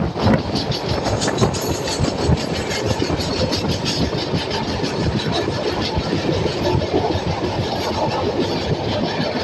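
Train running along the track: a steady rumble with a rapid, continuous clatter of wheels over the rails.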